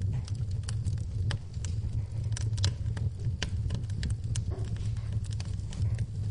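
Wood fire crackling in a fireplace, with irregular sharp snaps and pops of burning logs over a low, steady rumble.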